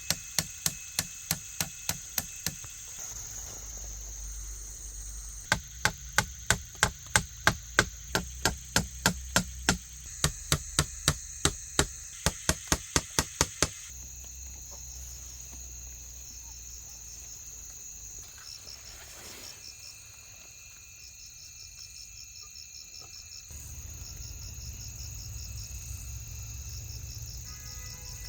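A knife blade chopping in rapid, even strokes, about three to four a second, in two runs that stop about 14 seconds in. Insects keep up a steady high drone throughout, with pulsed chirping trains after the chopping stops.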